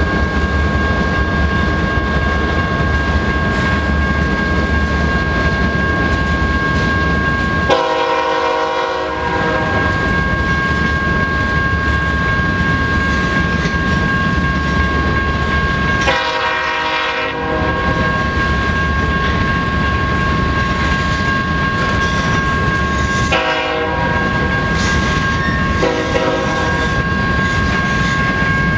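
A train running past with a steady rumble, its locomotive horn sounding four blasts: two long ones about eight seconds apart, then two shorter ones close together near the end.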